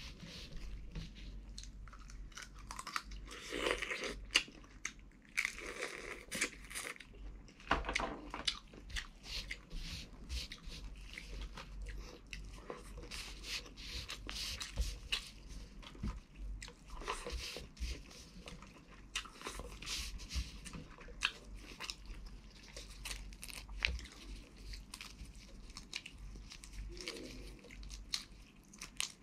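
Close-up eating sounds: chewing and crunching of boiled shrimp and rice, with many irregular clicks and smacks, and shrimp shells cracking as they are peeled by gloved hands.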